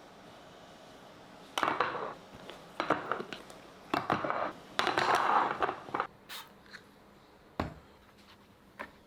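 Kitchen handling noises: a run of short scraping and rustling sounds, then a few light clicks and a single dull knock.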